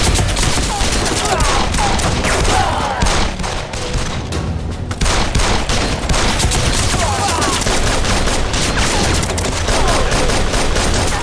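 Heavy gunfire in a drama gunfight: rapid, overlapping rifle and machine-gun shots, starting abruptly and running on with a brief lull about five seconds in.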